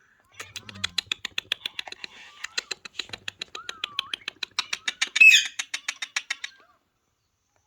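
Indian ringneck parakeet making a fast run of clicks with faint whistly glides, and one short squawk about five seconds in.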